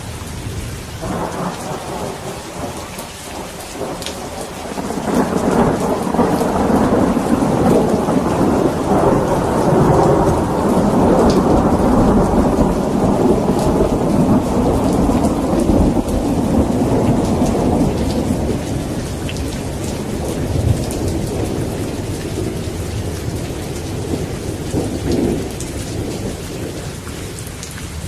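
Steady rain falling, with rolling thunder: a short rumble about a second in, then a long rumble that builds from about five seconds, peaks in the middle and slowly fades away near the end.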